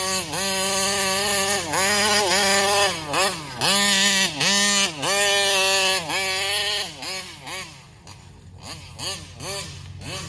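Taylor 35cc reed-valve two-stroke engine in a Kraken Vesla RC buggy, held at high revs in long pulls with quick dips where the throttle is lifted and reapplied. After about seven seconds it turns quieter, with shorter, quicker throttle blips.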